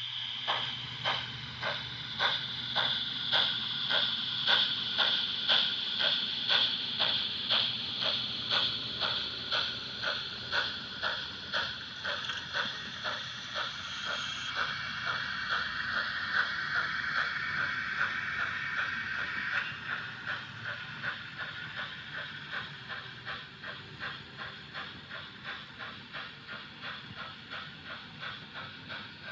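Märklin H0 model class 50 steam locomotive running with its train, with even, rhythmic steam chuffs at about two a second over the whirr of the model's mechanism.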